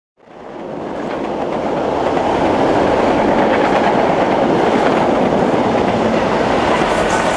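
Passenger train coaches running past at speed: a loud, steady rumble of wheels on rails with a faint rhythmic clatter. The sound swells up out of silence over the first second or so.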